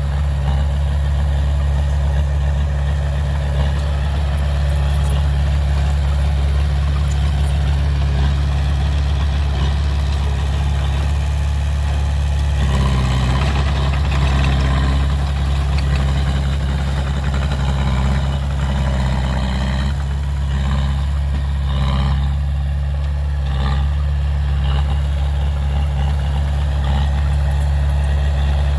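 Heavy diesel engine of earthmoving equipment running steadily with a deep, even hum, getting noisier with extra mechanical clatter for about ten seconds in the middle.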